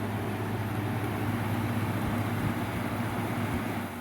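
1996 Whirlpool air conditioner running with its non-reciprocating (rotary) compressor on: a steady low hum under the rush of the fan's airflow, with hardly any chatter, which the owner takes as a sign of a healthy compressor. The airflow rush drops off near the end.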